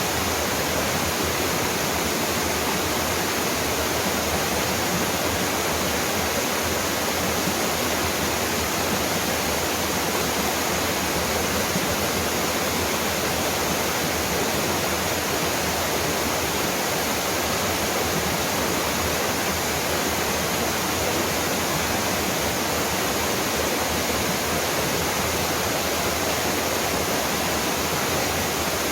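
Small mountain waterfall: water falling and splashing in a steady, even rush.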